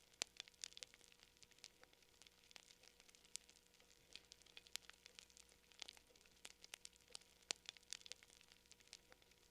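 Campfire crackling: burning wood giving off irregular sharp pops and snaps, several a second, over a faint hiss.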